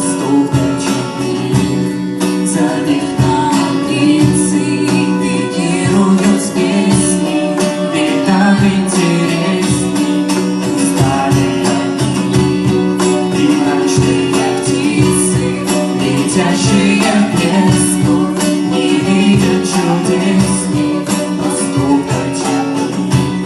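Live band playing an instrumental passage of a song: guitar chords held over a steady drum beat with cymbal hits.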